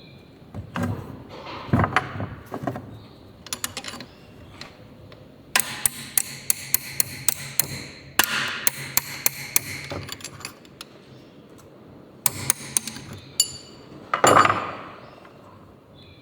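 Hand tools tapping and knocking on metal engine parts: scattered knocks, then quick runs of sharp taps at about four or five a second, with a louder knock near the end.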